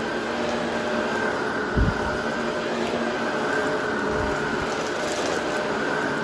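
Vacuum cleaner running steadily with a constant motor whine, and a single low thump about two seconds in.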